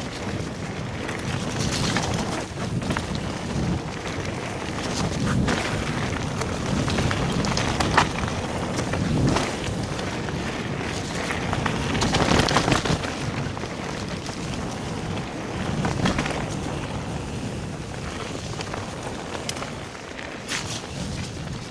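Wind buffeting the microphone and tyre noise from a mountain bike (a Calibre Triple B) riding a wet, muddy trail, with sharp knocks and rattles over bumps; the rush swells and fades with speed.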